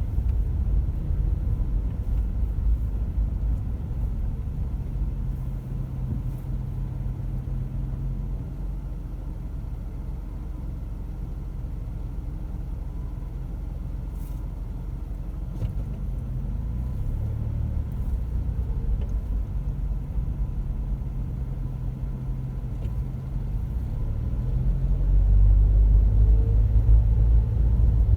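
Car driving: a steady low rumble of engine and road noise, growing louder near the end.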